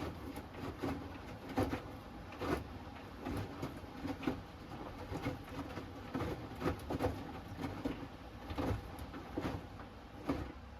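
Hoover Axi 10 kg front-loading washing machine tumbling its load during the wash phase of the Rapid 30' programme: water sloshing and laundry dropping in irregular soft knocks over a low motor hum. The tumbling stops shortly before the end as the drum pauses.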